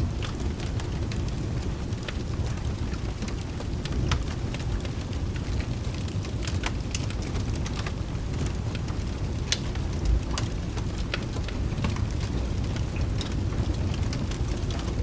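Wood fire crackling with scattered sharp pops over steady rain, with a low continuous thunder rumble underneath.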